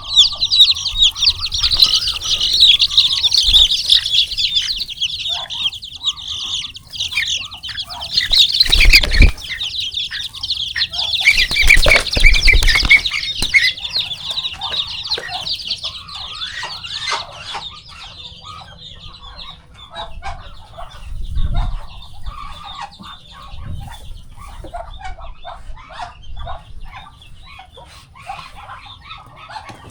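Many young poultry peeping continuously in high notes, with lower clucking calls underneath. Two loud scuffling bursts come about nine and twelve seconds in, and the peeping thins out in the second half.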